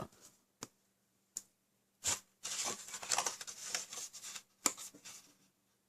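Cardstock being handled and pressed into shape by hand: a few light taps, then about two seconds of paper rustling and rubbing, with another tap near the end.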